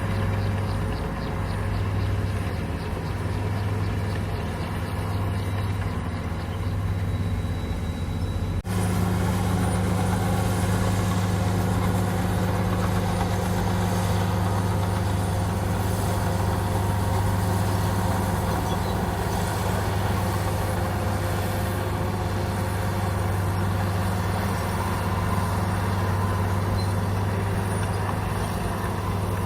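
Komatsu bulldozer's diesel engine running with a steady low hum. About nine seconds in the sound breaks off abruptly and comes back louder, with more rumble and noise over the hum.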